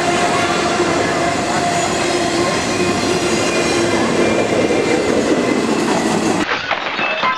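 A train running on the rails: a steady rumble of wheels with a few high squealing tones held over it. About six and a half seconds in, the sound cuts abruptly to a duller recording with sharp clicks.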